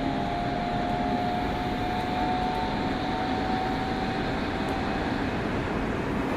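Running sound inside a Meitetsu 100 series train with a Mitsubishi GTO inverter: steady rumble of wheels on rail, with a thin motor whine that rises slightly in pitch and stops about five seconds in.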